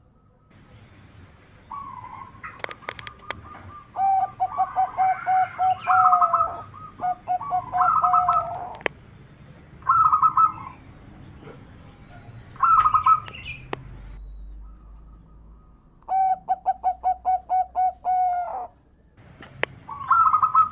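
Zebra dove (perkutut) cooing: repeated phrases of quick, staccato coo notes, given in bouts with short pauses between them.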